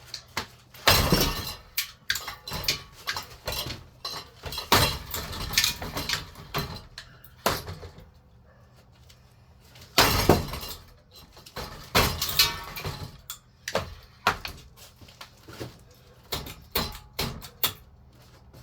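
A ceiling fan being smashed apart: a run of sharp hits, knocks and rattling of loose parts, with the loudest blows about a second in and about ten seconds in.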